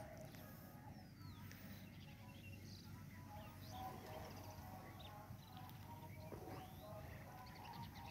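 Faint, scattered bird chirps and calls over a quiet background.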